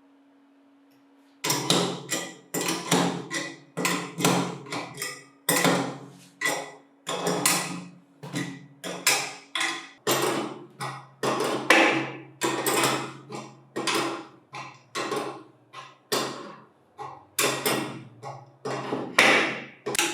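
A hammer striking metal, repeated blows at about one and a half a second, each ringing briefly before the next, starting about a second and a half in.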